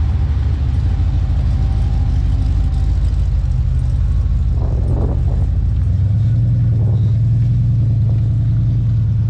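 Pickup truck engine idling with a deep, steady rumble; about six seconds in the note rises a little and steadies as it is brought up slightly.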